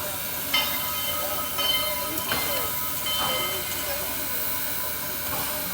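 Steam locomotive hissing steadily, with three brief high-pitched tones in the first few seconds.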